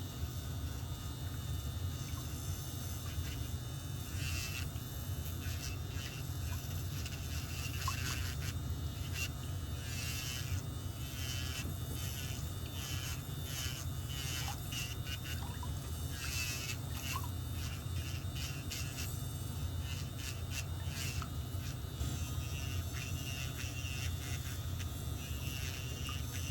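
Electric nail file running steadily, with short rasping strokes on and off from about four seconds in as it grinds down a thickened, fungus-affected toenail.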